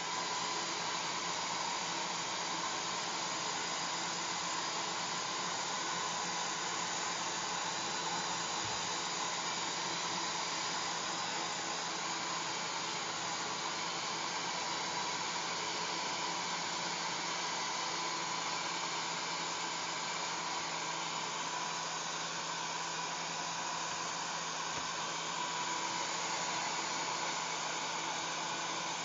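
Hair dryer running steadily: an even blowing hiss with a low motor hum underneath.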